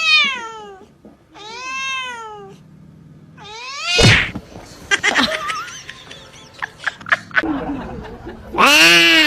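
A cat meowing three times in long, drawn-out meows whose pitch rises and then falls, followed by a few scattered clicks and a louder burst of sound near the end.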